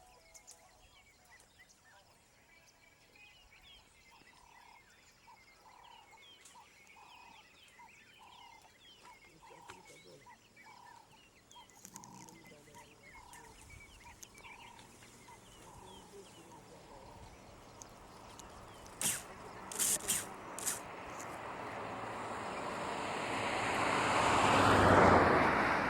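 Wild birds calling: one bird repeats a short single note in a long, evenly spaced series while others chirp. From about two-thirds in, a rush of noise swells and is loudest near the end, with a few sharp clicks just before it builds.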